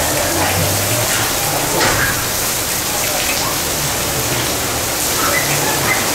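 Heavy downpour during a storm: a steady, loud hiss of rain.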